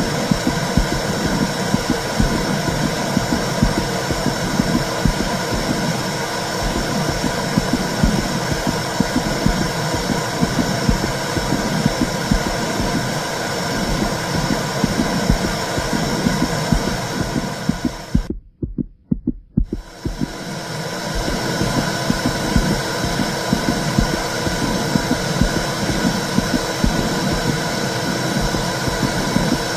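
Womb sound: a steady whooshing rush with a low, rhythmic heartbeat pulse beneath it. About two-thirds of the way through it cuts out almost completely for a couple of seconds, then resumes.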